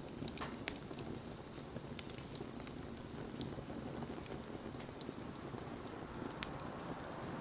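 Wood fire burning with a steady hiss and scattered crackles and pops, two sharper pops a little before the end.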